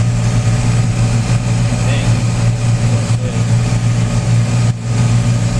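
Tractor engine running steadily at road speed, a constant low hum with a brief dip near the end.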